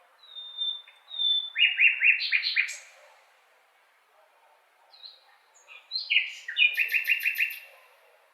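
A songbird singing two similar phrases about two seconds apart, each a clear high whistled note followed by a quick run of rapid repeated notes.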